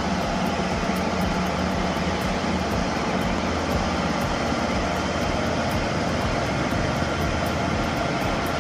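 Diesel engine of a heavy girder transporter running steadily under load: an even, unbroken drone.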